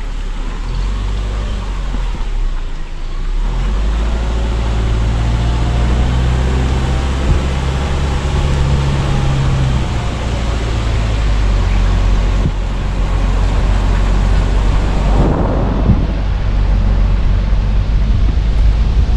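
Car driving along a road, heard from inside: steady engine hum and tyre road noise, with a brief rougher rush of noise about three quarters of the way through.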